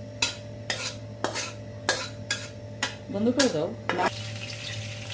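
A metal utensil clinking and scraping against a bowl as cooked noodles are moved into it, in a run of sharp clinks about twice a second. A steady low hum runs underneath.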